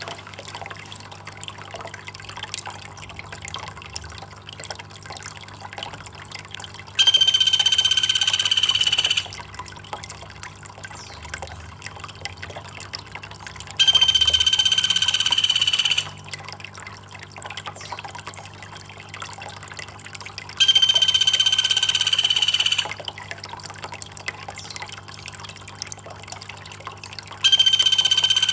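Looped bird-mastering recording: a steady trickle of water runs underneath, and a loud, steady, high-pitched call of about two seconds repeats four times, evenly spaced about seven seconds apart.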